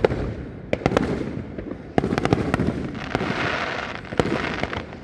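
Fireworks going off: a series of sharp bangs a second or two apart, with a crackling spell in the middle and a rumble between the reports.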